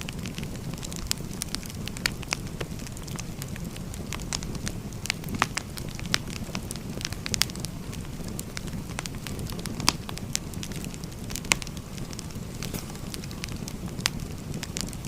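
Firewood logs burning, with sharp crackles and pops at irregular intervals over a steady low rumble of the fire.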